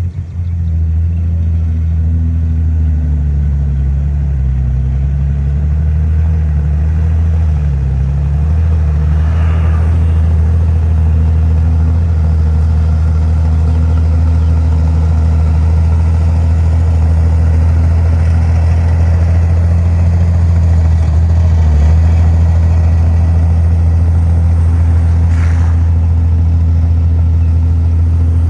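Heavy diesel engine of earthmoving machinery running steadily under load, its pitch rising and falling a little in the first several seconds.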